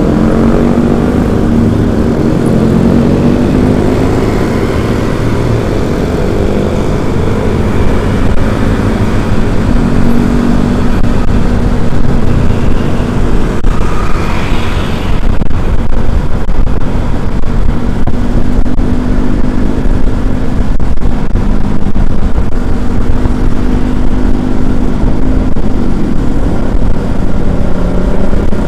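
Motor vehicle engine running on the move, its pitch shifting up and down as the speed changes, over a heavy rumble of wind on the microphone. A brief higher-pitched sound comes about halfway through.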